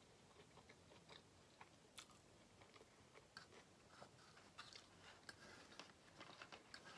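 Faint chewing of a mouthful of soft, sauce-covered fries, with scattered light clicks and scrapes of a metal fork against a metal baking sheet that come more often in the second half.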